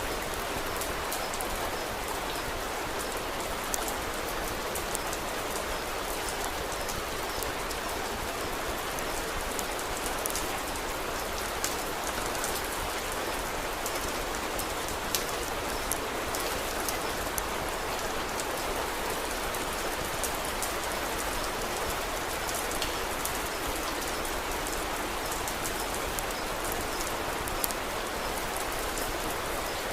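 Steady rain falling, an even hiss of drops with scattered sharp ticks throughout.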